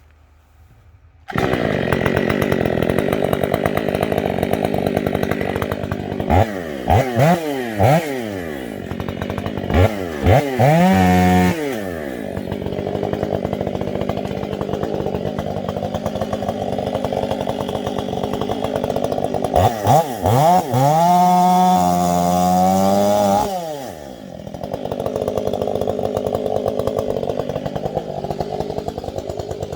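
Stihl MS 500i two-stroke chainsaw starting up about a second in and running at idle, with quick throttle blips and two runs up to high revs, the longer one about two-thirds of the way through, then settling back to idle.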